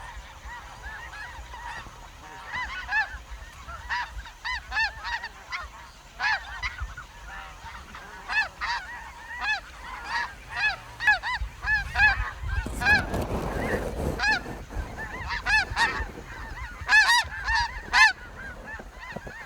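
A flock of snow geese calling: many short, high, yelping honks overlapping, getting denser and louder toward the end. A brief rushing noise about two-thirds of the way through.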